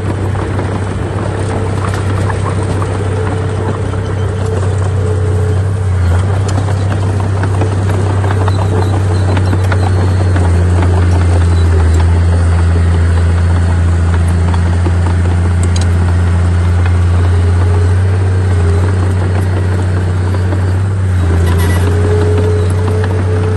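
Heavy diesel engine of earthmoving machinery running steadily with a deep, constant hum and a faint steady whine above it.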